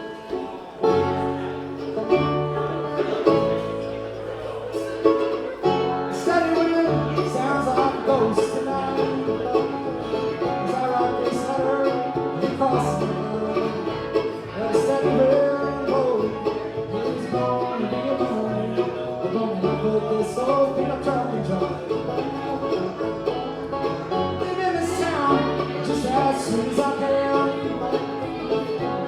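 Live bluegrass band playing a song's instrumental opening. It kicks in at the start over a stepping bass line, with plucked strings on top.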